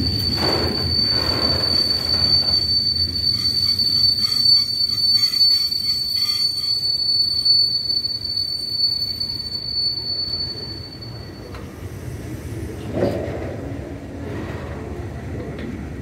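Train moving slowly on the rails, its wheels squealing in one steady high note that stops about three-quarters of the way through, over a low rumble with some clacking of the wheels. A single thump comes shortly after the squeal stops.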